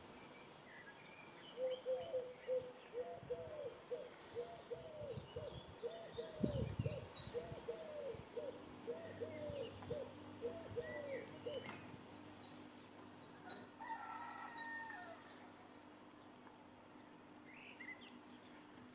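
A bird calling a long series of low, arched notes, about two a second, for roughly ten seconds, with faint high chirps around it. A faint steady hum comes in about halfway through.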